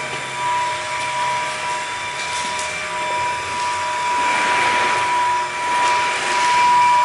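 A steady motor drone with a constant high whine, with a swell of hiss about four to five seconds in and a few light knocks.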